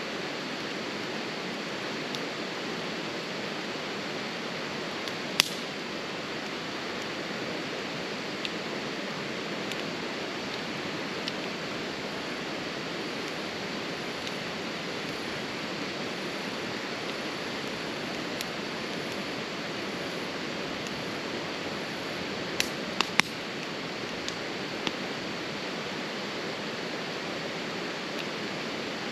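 Campfire of burning wood giving an occasional sharp pop, once about five seconds in and in a quick cluster of three about twenty-three seconds in, over a steady rushing noise.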